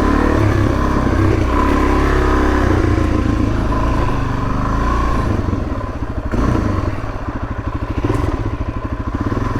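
Suzuki DR-Z400S single-cylinder four-stroke engine running on a dirt trail. It runs steadily under throttle at first; from about halfway through it eases off to a slower putter of separate firing pulses.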